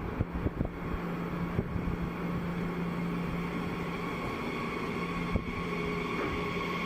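Electric train running at the platform with a steady low hum and a fainter higher whine, with a few knocks in the first second or two.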